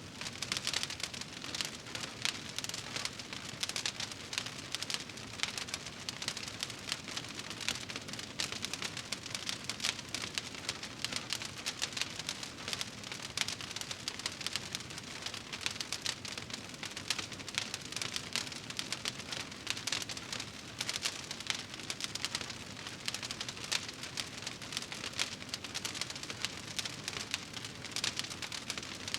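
Wood fire in a fireplace crackling steadily, a dense run of small pops and snaps.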